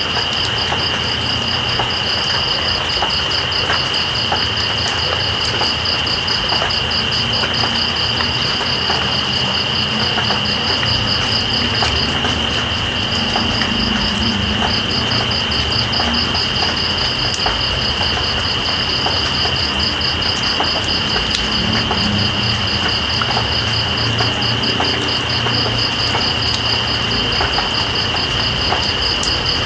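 Night insects chirping over steady rain. One insect keeps up a continuous high-pitched buzz while another trills in fast, even pulses that pause briefly about twelve seconds in. Under them is a constant hiss of rain with scattered small drips.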